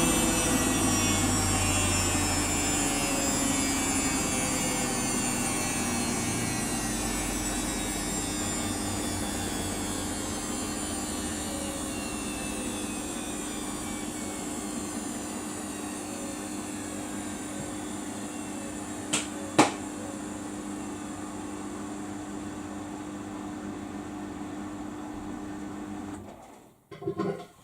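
Samsung washing machine's drum winding down after a high-speed spin: the motor's whine falls steadily in pitch and fades, with two sharp clicks about two-thirds of the way through, then the machine falls silent near the end.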